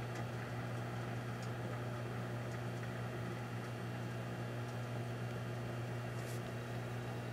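Proctor-Silex microwave oven running with a steady low hum, heating a Ty-D-Bol toilet-cleaner tablet, with a few faint ticks now and then.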